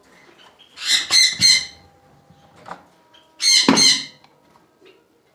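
Lovebirds giving harsh, shrill squawks: a quick run of three about a second in, then one longer squawk about three and a half seconds in, typical of birds disturbed at their nest box.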